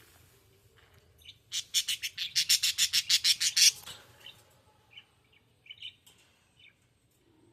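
Budgerigar chirping: a loud, fast run of sharp chirps, about eight a second, lasting around two seconds, then a few scattered short chirps.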